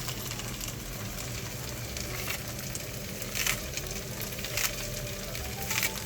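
Food frying in hot oil in a pan: a steady sizzle, with louder crackles and pops every second or so.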